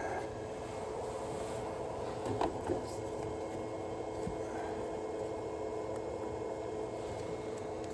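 Coolant reservoir cap being handled and checked for tightness, a few light clicks about two and a half seconds in, over a steady hum.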